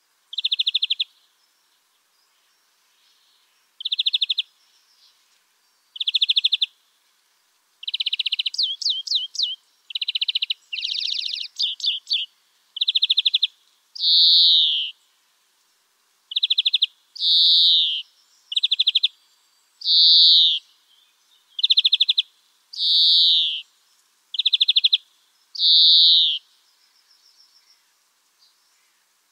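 A songbird singing, repeating short high phrases about every one to two seconds: quick trills alternating with notes that fall in pitch, with a faster run of rapid notes about eight to twelve seconds in.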